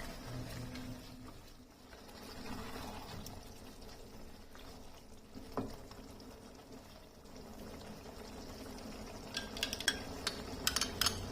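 Kitchen cooking sounds: a low steady hiss, a single knock about halfway through, then a quick series of light ringing clinks of utensils on cookware near the end.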